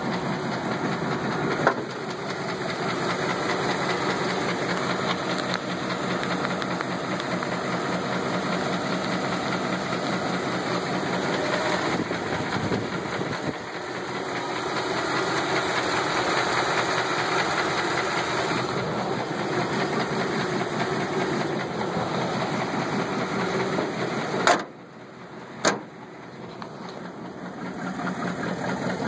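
1983 GMC pickup engine running with a bad rhythmic knock, a rod knock from a worn connecting-rod bearing. Sharp clicks come near the start and near the end, and the engine sound suddenly drops away for a few seconds about 24 seconds in.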